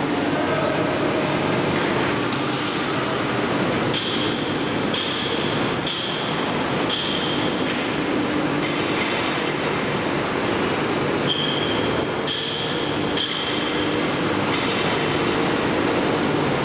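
Train running on the rails with a steady, loud rumble. Over it come high-pitched wheel squeals about a second long: a run of four from about four seconds in, and several more later.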